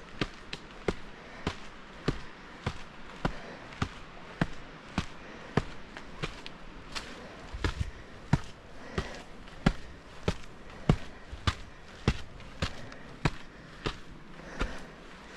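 A walker's footsteps at a steady pace, about five every three seconds, each a sharp tread with a low thud.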